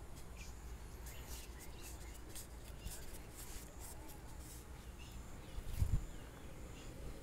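Outdoor pond-side ambience: faint, quick high chirps of birds over a steady low rumble on the microphone, with one soft thump about six seconds in.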